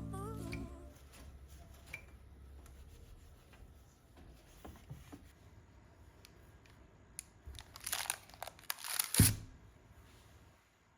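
Background music fades out at the start, then quiet handling clicks, and about eight seconds in a short spell of crinkling wrapping being crumpled or torn, ending in a sharp thump.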